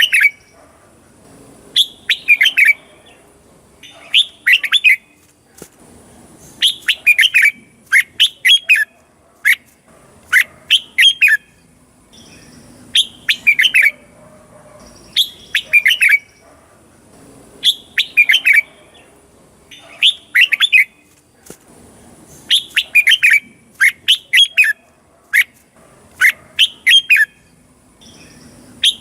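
Red-whiskered bulbul singing: short phrases of several quick, falling whistled notes, repeated about every two seconds.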